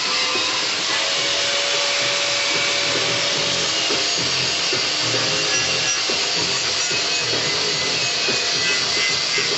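Power tool cutting and grinding the steel steering box mount, a steady rasping noise with a repeating stroke.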